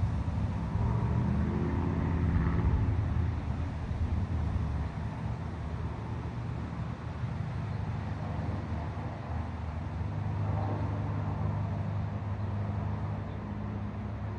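Low rolling thunder rumbling, loudest near the start and slowly fading, over a steady hiss of rain.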